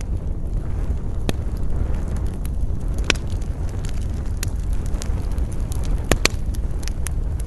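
Wood campfire crackling, with sharp pops every second or so and a close pair of loud pops near the end, over a steady low rumble of wind.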